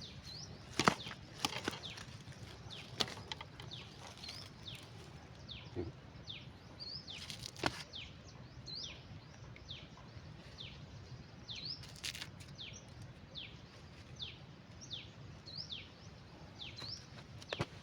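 A bird calling over and over in short, falling chirps, about one a second, over faint outdoor hiss. A few sharp knocks or splashes cut in, the loudest about a second in and around the middle.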